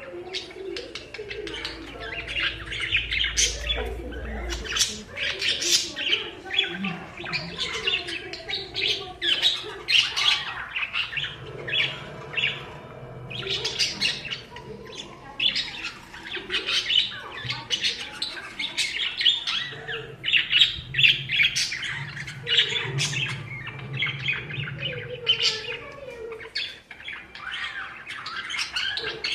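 Pet parakeets chattering: a dense, continuous run of quick high chirps and squawks.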